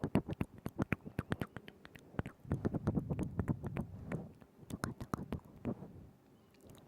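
Close-miked wet mouth sounds, right at the microphone: a quick run of tongue and lip clicks and smacks, thinning out after about two seconds into slower wet smacks with softer gaps, quieting near the end.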